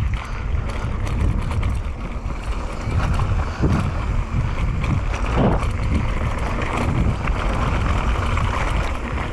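Wind buffeting the microphone and tyres rolling over a dirt trail as a mountain bike descends, with knocks and rattles from the bike over bumps and two short squeals in the middle.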